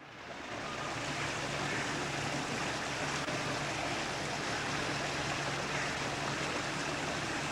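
Steady rush of flowing water with a faint low hum underneath, fading in over the first second.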